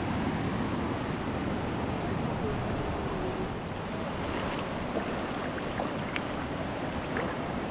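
Steady rushing noise of flowing water, with a few faint clicks.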